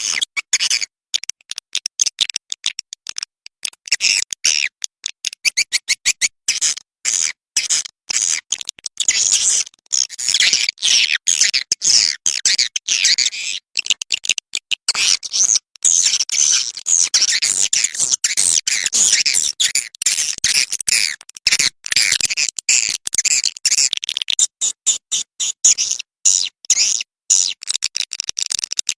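Small songbird singing a rapid, high-pitched chattering and trilling song, broken by frequent abrupt short silences.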